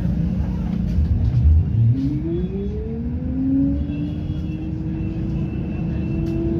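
Road traffic: a vehicle engine running with a low rumble, its note rising steadily as it accelerates from about two seconds in.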